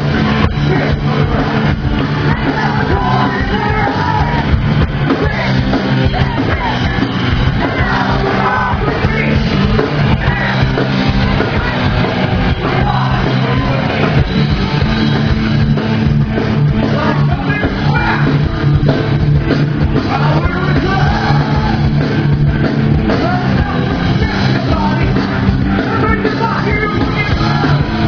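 Rock song with singing, loud and continuous, over a steady drumbeat.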